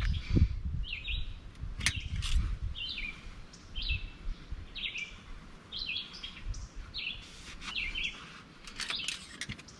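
A songbird calling over and over outdoors: a short chirp sliding downward, about three every two seconds. Under it is a faint, uneven low rumble, with a thump at the start and a sharp click about two seconds in.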